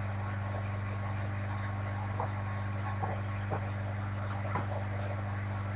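Steady low hum of a car running, heard from inside its cabin, with a few faint clicks.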